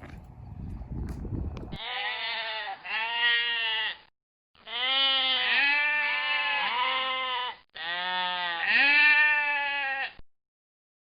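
Goat bleating: a run of repeated wavering bleats in short groups, with brief silent gaps between them, cut off abruptly near the end. Before the bleats, a couple of seconds of rough background rumble.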